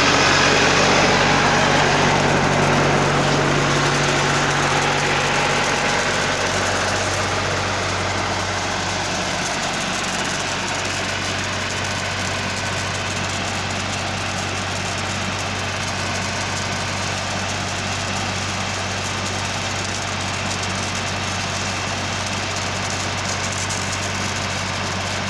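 Tractor engine driving a sprayer, slowing from a higher speed to a steady idle over the first several seconds, then idling evenly.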